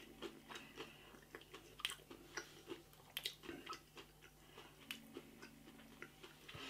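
A person chewing a crispy, coarse-breadcrumb-coated chicken nugget with the mouth close to the microphone: faint, irregular soft crunches and wet mouth clicks.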